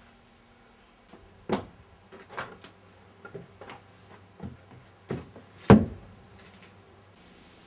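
A series of irregular knocks and clunks, about eight of them, the loudest a little past two-thirds of the way through.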